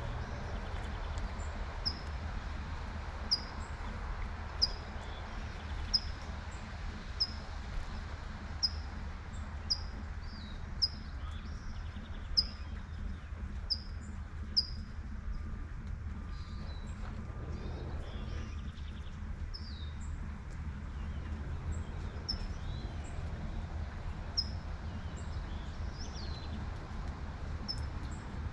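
A songbird repeats a short, high chirp about once every second and a half, over a steady low rumble and the light hiss of rain. Through the second half the repeated chirp gives way to scattered, varied chirps and short sliding calls.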